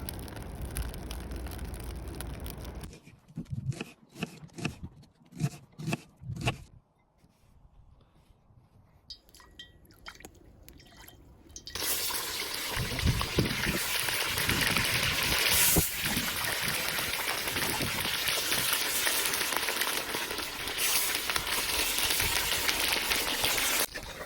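Cooking at a kazan for plov: a few separate knocks, then about halfway through a loud, steady hiss sets in and runs on.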